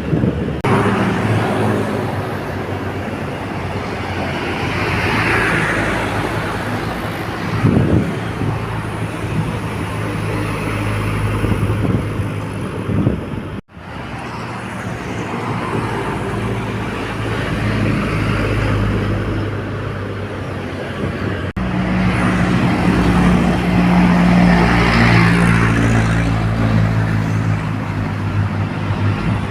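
Small trucks heavily loaded with sand and stone running on a road, a steady low engine hum mixed with traffic noise and louder in the last third. The sound drops out suddenly twice.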